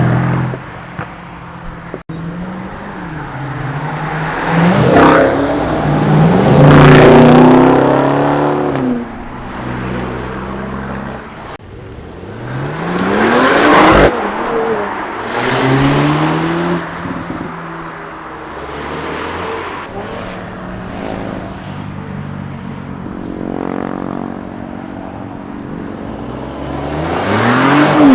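A string of modified cars accelerating hard past one after another, each engine note rising in pitch as it swells and fades away. The loudest passes come about a quarter of the way in, near the middle and at the very end, and the sound breaks off abruptly a few times between passes.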